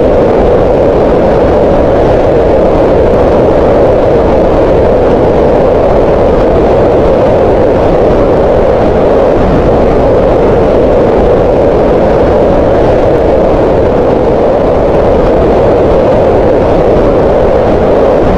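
Green noise: a loud, unchanging hiss with its energy centred in the midrange around 500 Hz, tapering off in the lows and highs.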